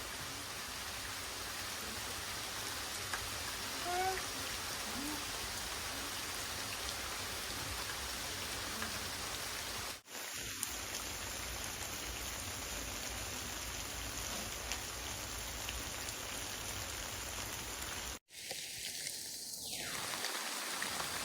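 Steady rain falling, an even hiss of rain with no pauses except two very brief cuts in the sound.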